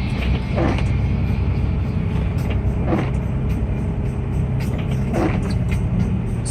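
A car running, with music playing over it. A short rising swish repeats evenly about every two seconds.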